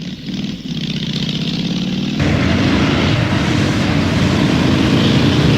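Motocross bike engine running steadily, then abruptly louder and rougher about two seconds in.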